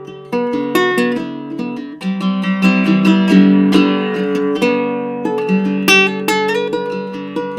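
Baritone ukulele with an ancient sitka spruce top and pernambuco back and sides, played unaccompanied in an improvised passage of picked notes and chords, with fuller strummed chords about two seconds in and again past the middle.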